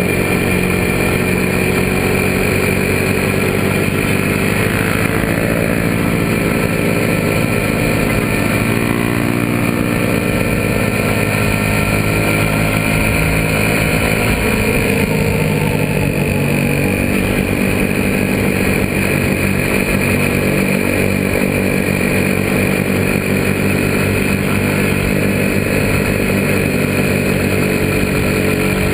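Suzuki Raider 150's single-cylinder engine running under way at road speed, its pitch rising and falling a few times with the throttle.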